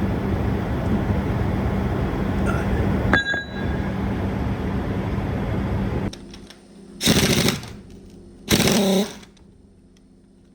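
A steady loud noise with a low hum stops about six seconds in. Then come two short rattling bursts of a pneumatic impact wrench, about a second and a half apart.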